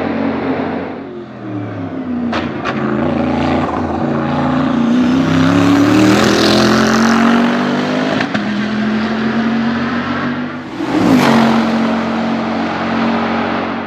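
Bentley Continental GT3 race car's twin-turbo V8 accelerating, its pitch climbing over several seconds, with two sharp cracks about two and a half seconds in. Near the end the car passes close by in a loud rush, then the engine settles to a steady note.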